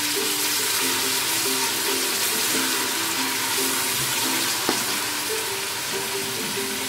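Oil sizzling steadily as chopped tomato, garlic and ginger fry in an aluminium pressure cooker, stirred with a wooden spoon. Background music with a simple melody plays over it.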